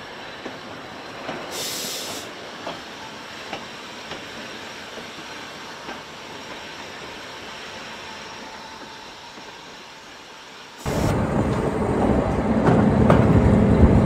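Heritage railway carriage rolling along the track: a steady running noise with scattered clicks from the wheels, and a short hiss about two seconds in. Near the end the sound suddenly becomes much louder and deeper.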